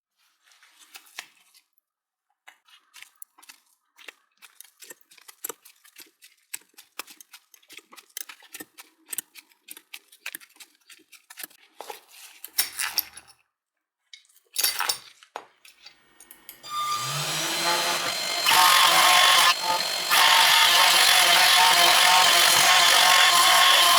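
Light clicking and scraping of hand work on a bare motor armature, then a small power tool spins up about 17 seconds in and runs loud and steady, briefly easing off once, as it works the armature ready for rewinding.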